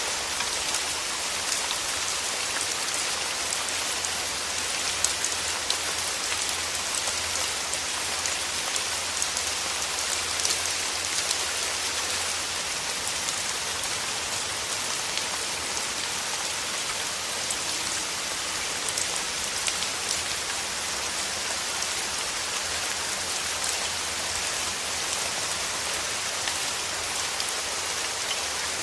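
Steady rain, an even hiss with many individual raindrops ticking through it.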